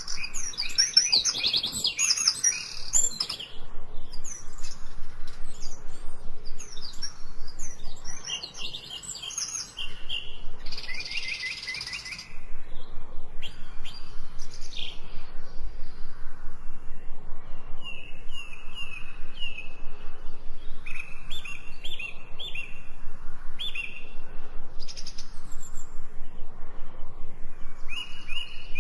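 Birds chirping and twittering: many short high calls and repeated trills.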